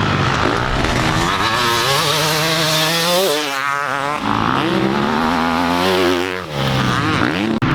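Dirt bike engine running and being revved, its pitch rising and falling repeatedly, with a sharp rise and drop about three seconds in.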